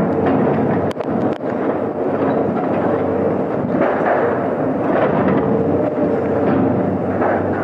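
Heavy machinery at a scrap yard: an engine running steadily with a hum, with metal knocking and clanking over it, two sharp knocks about a second in.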